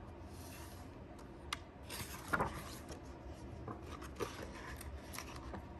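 Paper handling: a picture book's page being turned, with a short rustle about two seconds in and a few light clicks and rubs around it.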